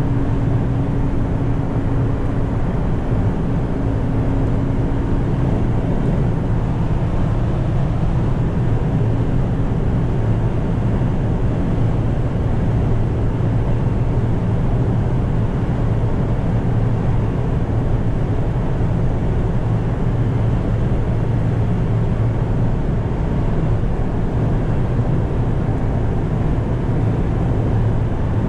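Toyota 2Y 1.8-litre four-cylinder gas engine of a 1988 Hiace truck running steadily while driving, with road noise. A higher steady whine fades out about six seconds in.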